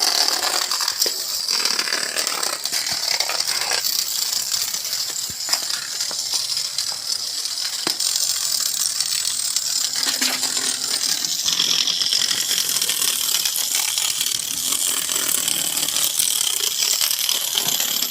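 Small DC hobby motor of a popsicle-stick model motorbike running steadily through its drive, starting abruptly at the beginning.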